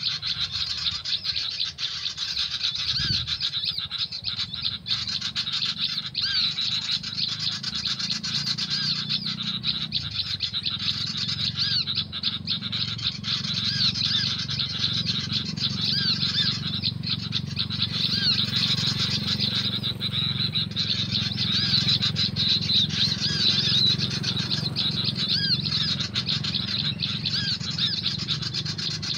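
Recorded bird song played nonstop from an MP3 speaker as a trapping lure: dense, rapid chirps that repeat without a break, over a steady low hum.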